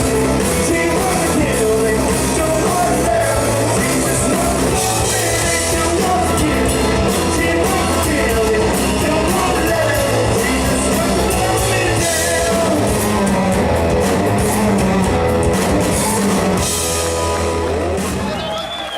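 Loud live rock music from a trio, with singing and drums over a heavy bass line. It dies away near the end as the song finishes.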